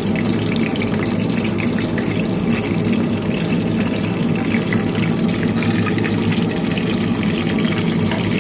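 Chicken pieces frying in hot oil: a steady sizzle dotted with small crackles and spits, over a steady low hum.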